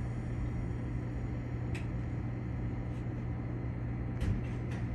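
Steady low hum of a stopped electric train waiting at a platform, with a few light clicks about two, three and four seconds in.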